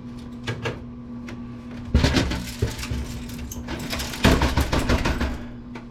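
Computer case being handled and turned over: a few light clicks, then from about two seconds in a run of knocks, scrapes and rattles of plastic and metal parts, with a second loud cluster about four seconds in.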